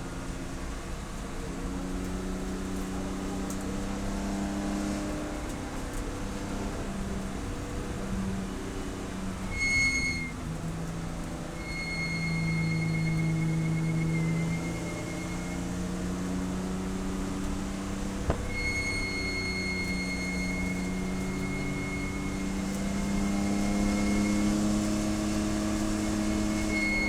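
Race car engine running under load, its revs climbing and dropping again and again through gear changes. A high, steady tone comes and goes several times, each time lasting from a second to a few seconds.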